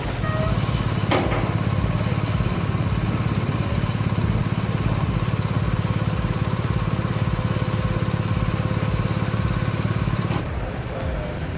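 Large diesel engine running steadily with a fast, even throb, and one sharp knock about a second in; the sound cuts off abruptly near the end.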